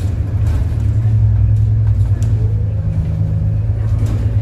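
City bus running along the road: a loud, steady low rumble of engine and drivetrain, with a faint steady whine joining about halfway through.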